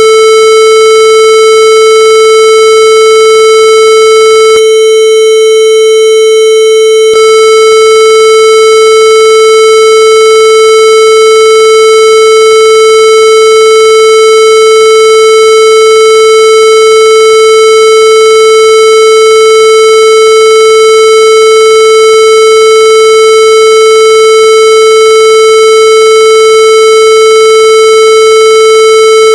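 A loud, unbroken electronic tone held at one steady pitch, with no rise or fall.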